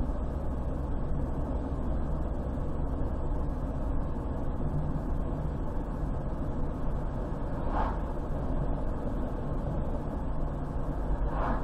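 Road noise of a car driving along a highway: a steady low rumble of engine and tyres, with two short swishes late on.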